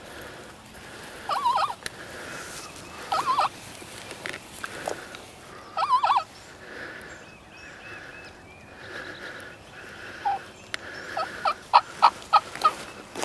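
Wild turkey gobbler gobbling loudly three times, each a rattling, warbling call, followed near the end by a quick run of short, sharp turkey calls.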